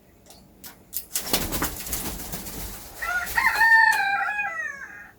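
Pet parrot giving a rooster-like crow: one drawn-out call that slides down in pitch, over the last two seconds. It is preceded by about two seconds of rustling, flapping-like noise.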